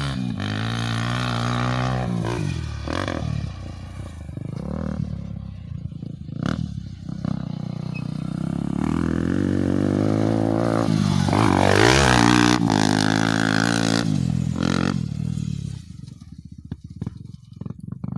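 Motocross bike engine revving up and down repeatedly, as on a dirt track, loudest about twelve seconds in, then falling to a quieter, uneven level near the end.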